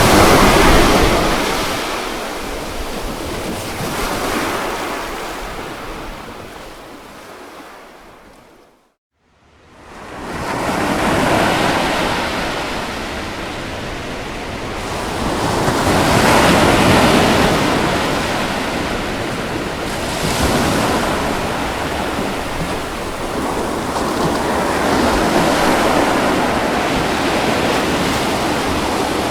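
Ocean waves washing onto a beach, swelling and ebbing every few seconds. About nine seconds in, the wash fades almost to silence for about a second, then surges back.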